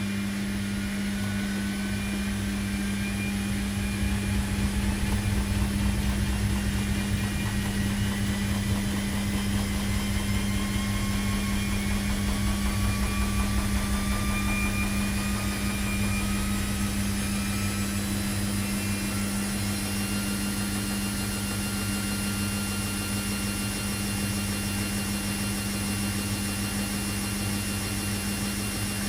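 Washing machine running: a steady low hum with a faint motor whine that slowly rises in pitch. A low rumble grows stronger for a while and then eases off after about the middle.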